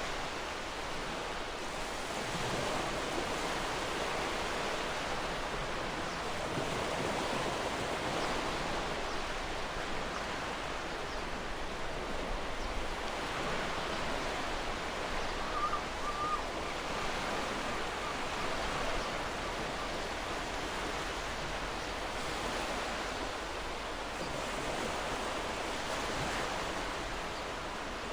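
Gentle ocean waves washing in and out, a steady hiss that swells and eases slowly. A brief faint bird call sounds about halfway through.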